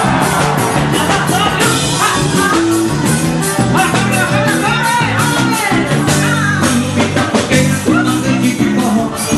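Live forró band music with a quick, steady percussion beat under a gliding melody line.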